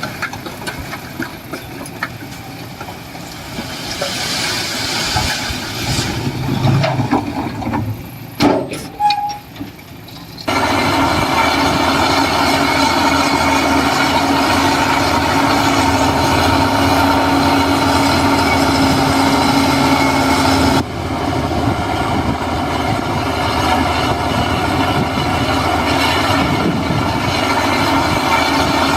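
Heavy diesel earthmoving machinery running steadily. The sound is rougher and quieter for the first ten seconds, then jumps suddenly to a loud, even engine note, with another abrupt change about twenty seconds in.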